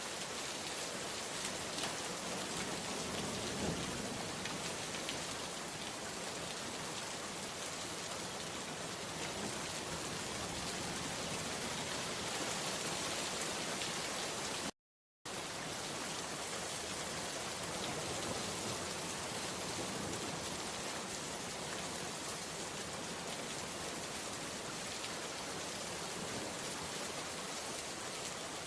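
Steady rain falling and pattering on surfaces, an even unbroken hiss. It cuts out to silence for a split second about halfway through.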